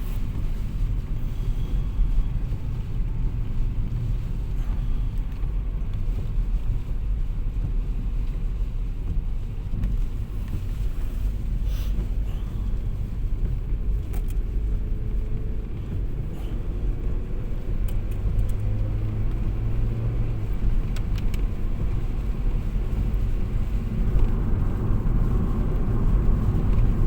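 Car being driven, heard from inside the cabin: a steady low rumble of engine and tyres, with a few faint rising engine tones and scattered light ticks.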